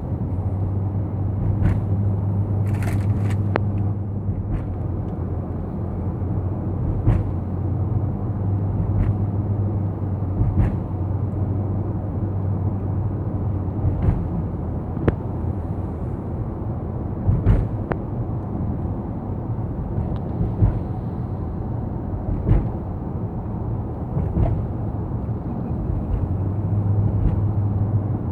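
Steady drone of a car driving on a highway, heard inside the cabin: a low engine and road hum with tyre noise, broken by scattered light knocks and clicks every second or two.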